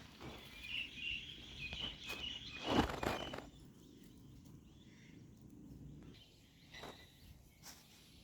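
Rustling and steps outdoors with short, high bird chirps over the first three seconds. The loudest rustle comes near three seconds in; after that it is quieter, with a couple of soft clicks.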